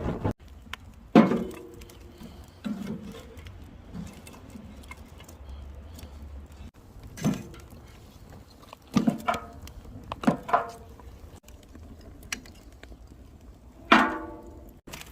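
Hard objects clinking together, about five sharp knocks each ringing briefly, over a low steady rumble.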